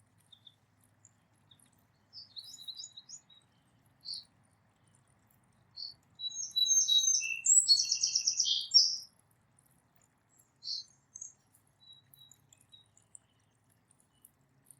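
Small songbirds chirping now and then, with one louder, quick run of varied song notes around the middle.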